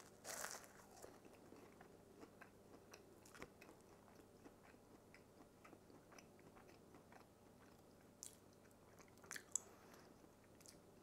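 A bite into a flaky puff-pastry cheese straw, then faint crunchy chewing with small crackles. A few slightly louder crunches come near the end.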